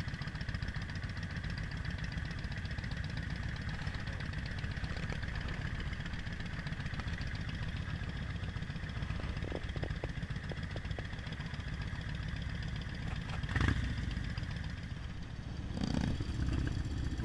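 Motorcycle engine running steadily, a low rumble, with a few light clicks and a short thump about three-quarters of the way through.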